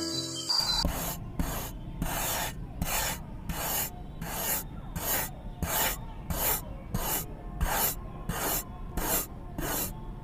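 Miniature hand-cranked chaff cutter being turned, its blade chopping grass in a steady rhythm of scraping strokes, about two a second, starting just under a second in.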